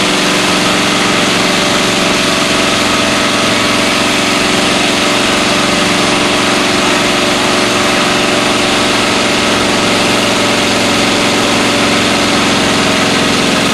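Pickup truck engine held at constant high revs during a burnout, under a dense, steady hiss of spinning tyres. The pitch and level stay even throughout.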